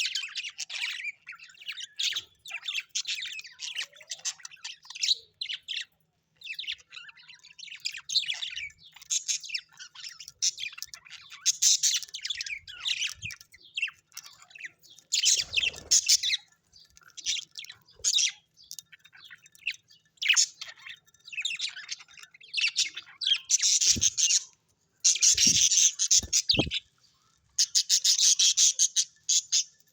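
Birds chirping and twittering in rapid, overlapping runs, with short pauses, and louder harsh, squawky bursts near the end. A few soft knocks are heard late on.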